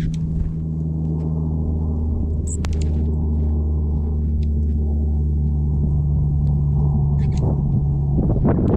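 A steady low hum dominates, with scattered short, faint chip notes from small songbirds. A louder rough rustling noise comes in near the end.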